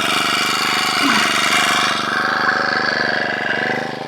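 An engine idling steadily, with an even, rapid pulse; it drops off in level shortly before the end.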